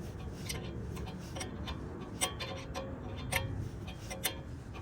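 Sharp metallic clicks, irregular and about a quarter to one second apart, some with a short ring, from a hand tool being worked on a car's wheel stud to chase its damaged threads.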